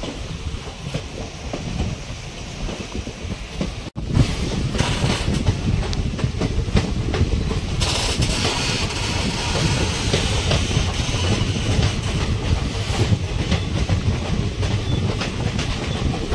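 Passenger train running along the track, its wheels rumbling and clacking on the rails, heard from an open carriage door. The sound drops out for an instant about four seconds in, then comes back louder.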